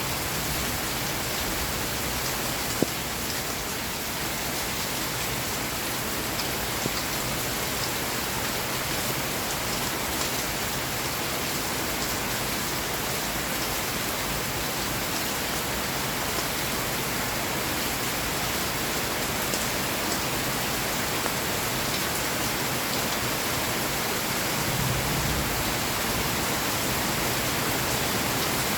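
Steady rain falling, an even hiss with scattered drop ticks. One sharper tick comes about three seconds in.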